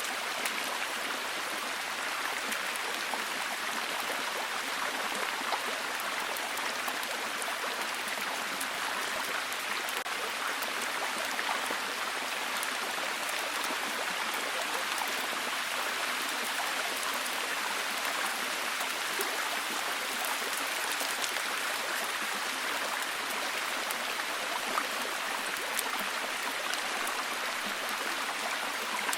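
Steady, heavy rain: a dense, even hiss of many drops with fine ticks of individual drops hitting a surface.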